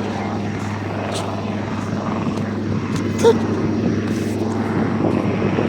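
Helicopter running steadily, a constant low hum of engine and rotor with a noisy wash. About three seconds in, a short high tone sounds briefly above it.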